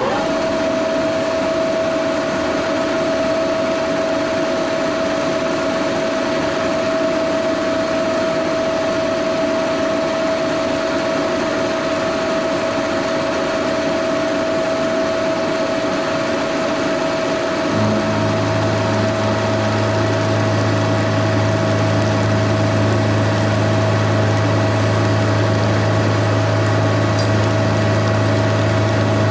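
An 80-year-old milling machine's high-speed vertical head, driven through gears and a chain by a 5 horsepower motor, running at 1550 rpm with a steady roar and a constant gear whine. About two thirds of the way in, a deep steady hum joins it and holds.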